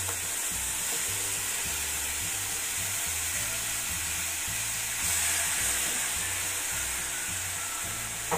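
Ground chili, shallot and garlic spice paste sizzling steadily in hot oil in a frying pan as it is scraped in and sautéed with a spatula, getting a little louder about five seconds in.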